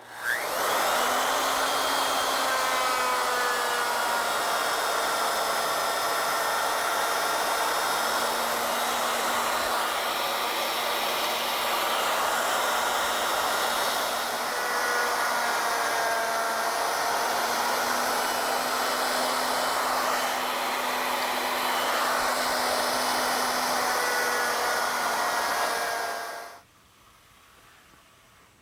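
Electric router on an ornamental mill cutting reeds into a wooden spindle as the carriage follows a template. A steady motor whine that spins up at the start, its pitch sagging and recovering as the bit works into the wood, then cuts off suddenly about 26 seconds in.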